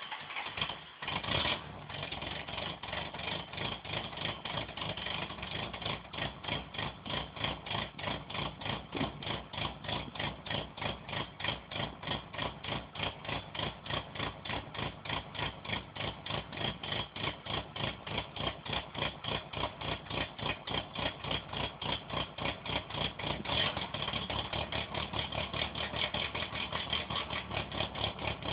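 Car engine just after a cold start, idling high with a steady, even pulsing lope that the owner likens to a rotary engine. It flares briefly about a second in, and the low end grows fuller about three-quarters of the way through.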